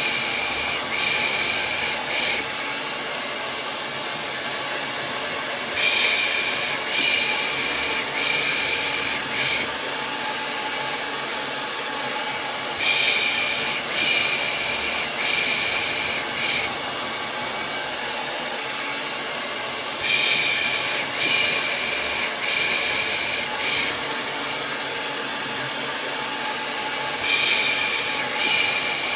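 Steady hair-dryer white noise, overlaid about every seven seconds by a group of three or four rhythmic 'pış pış' shushes, the Turkish shushing used to lull a baby to sleep.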